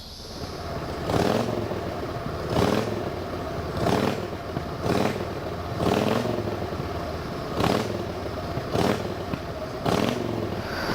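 Freight train rolling past close by, its cars' wheels clattering over the rail joints in a repeating beat about every second and a bit, over a steady rumble.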